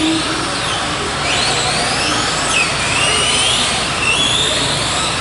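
A pack of electric radio-controlled race trucks accelerating away from the start. Several small electric motors whine and overlap, each rising and falling in pitch as they speed up and brake, over a steady rush of tyres and drivetrains.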